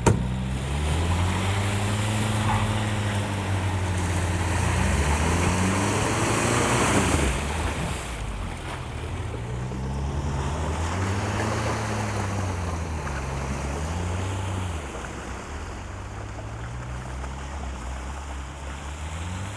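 Kodiaq SUV engines revving up and down, their pitch rising and falling repeatedly, as the stuck Kodiaq Scout is pulled out of a muddy rut. A rushing noise swells over them and is loudest around six to seven seconds in, then eases.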